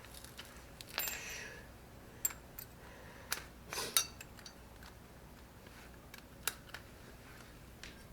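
Scattered light metallic clinks and short scrapes, about half a dozen, as metal tools or parts are handled during suspension work.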